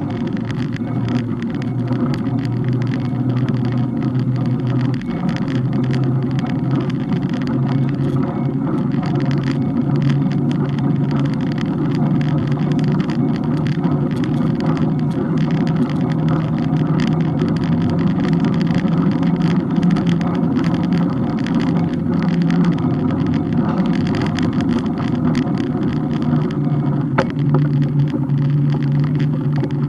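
Road noise from a bike on the move in city traffic: a steady low hum that shifts in pitch now and then, with many small clicks and rattles throughout.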